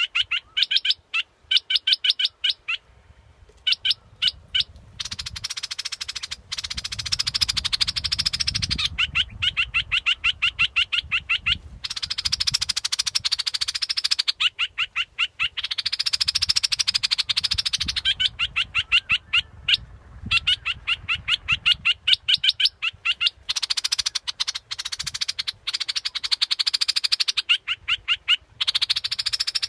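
Bulbul song used as a bird-trapping decoy call: repeated phrases made of rapid, evenly spaced chattering notes, with short pauses between phrases.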